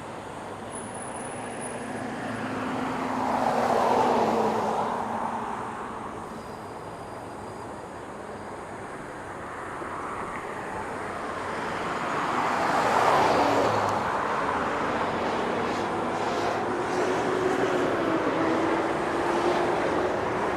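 Road traffic: two vehicles pass close by, one about four seconds in and another about thirteen seconds in, each swelling up and fading away, over steady road noise.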